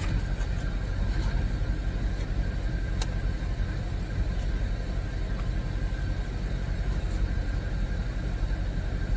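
Car engine idling, a steady low rumble heard from inside the cabin, with a faint click about three seconds in.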